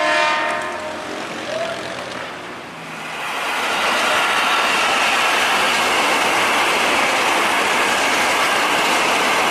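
A horn sounds briefly, then about three seconds in an electric commuter train passes close by with the loud, steady noise of its wheels on the rails.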